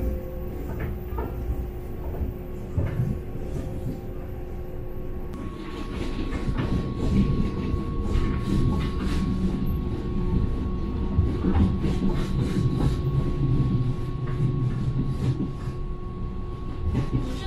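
Passenger train running on the rails: a steady low rumble with short wheel clicks over the track. A steady higher whine joins about five seconds in, and the sound grows a little louder.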